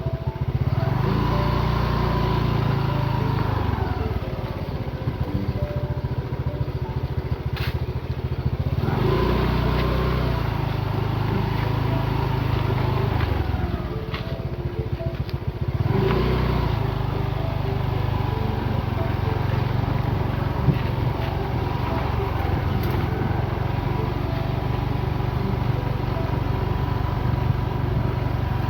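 Motorcycle engine running on the move, its pitch and loudness rising and falling several times as the throttle opens and eases off.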